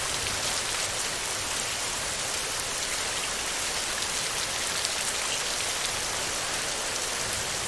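Heavy rain falling steadily on a metal roof: a dense, even hiss with scattered drop ticks.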